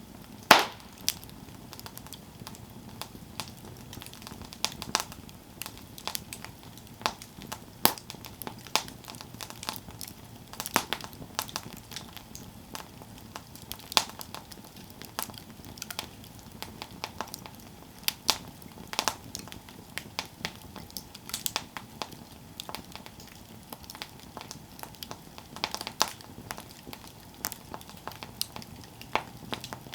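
Wood campfire crackling, with irregular sharp pops and snaps over a faint low hiss, the loudest pop about half a second in.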